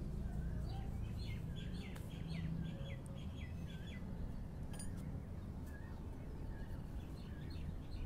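Birds chirping: a quick run of short repeated notes in the first few seconds, then scattered calls near the end, over a steady low rumble. A single sharp click about five seconds in.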